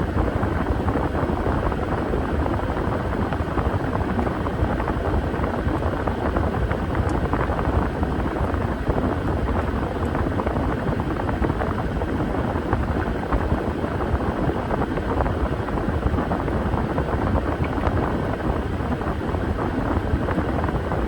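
Washing machine running steadily, its drum and motor making a loud, even churning noise with a fast flutter.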